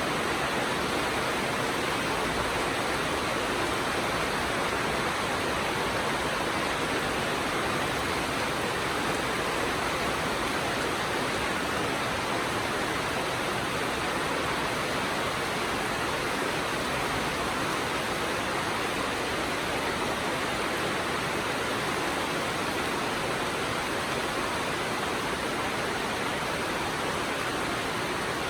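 Steady heavy rainfall: an even, unbroken hiss of rain with no separate drops or other sounds standing out.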